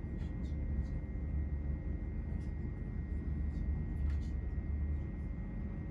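Running noise inside the passenger saloon of a Great Western Railway Class 800 train at speed: a steady low rumble with a faint steady whine above it and a few light clicks.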